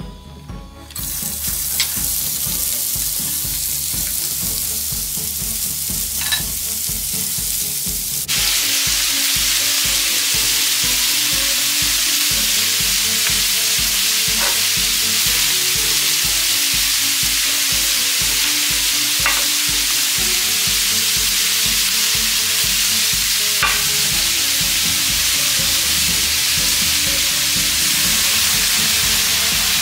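Canola and sesame oil sizzling in a wok-like metal pot. About eight seconds in, the chopped cabbage, carrots and green onions go in and the frying jumps to a louder, steady sizzle, with a few faint clicks.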